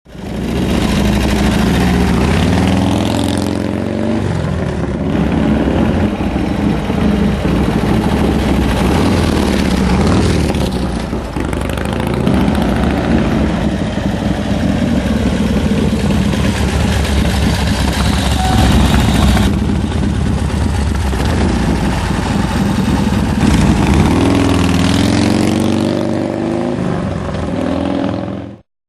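A custom motorcycle's 103 cubic inch V-twin engine running through a Thunder Header exhaust, idling loudly and revved up and back down a few times.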